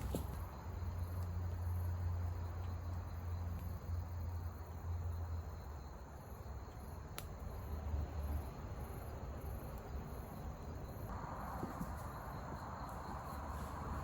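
Crickets calling steadily in a pulsing high chorus over a low rumble, with a single click around the middle and a soft hiss coming in near the end.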